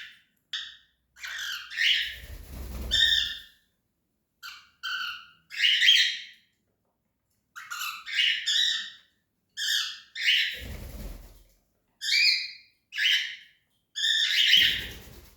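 Cockatiel calling over and over: about a dozen short, harsh squawks and chirps with brief pauses between them. A low rumble sits under a few of the calls, about two seconds in, in the middle and near the end.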